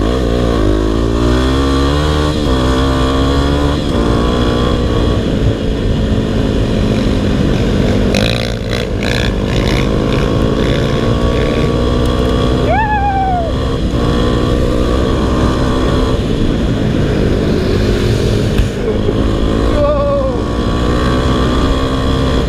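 Single-cylinder four-stroke dirt bike engine running hard on a trail ride, its pitch climbing and dropping with throttle and gear changes. Twice, about halfway and near the end, a sharper engine note sweeps down in pitch.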